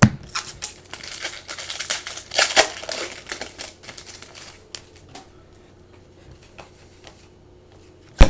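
Crinkling and rustling of trading-card packaging handled by hand, dense for the first three seconds or so, then a few light clicks and one sharp tap near the end.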